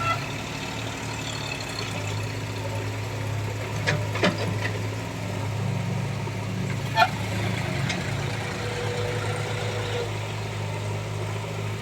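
Heavy diesel machine's engine running steadily at low revs, with a few sharp knocks about four seconds in and a louder one near seven seconds.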